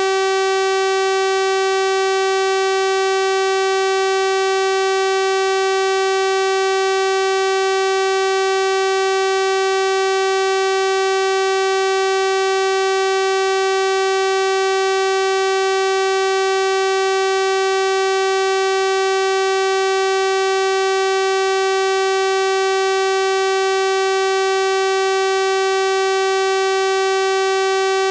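Synthesized 384 Hz sawtooth-wave test tone, a steady buzzy electronic note with a full series of bright overtones, unchanging in pitch and level.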